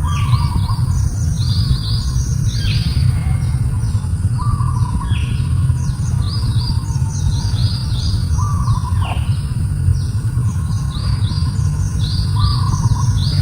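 Small birds chirping: quick runs of short, high, falling chirps, with a lower falling note repeating every few seconds, over a steady low rumble.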